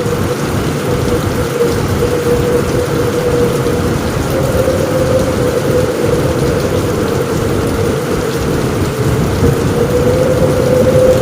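Heavy rain falling steadily on a roof, with a low rumble of thunder beneath it and a constant droning note.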